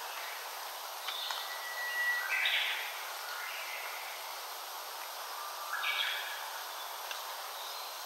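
Wild songbird singing over a steady background hiss: a held whistle about a second in, followed at once by a quick phrase stepping up in pitch, then another short rising phrase about six seconds in.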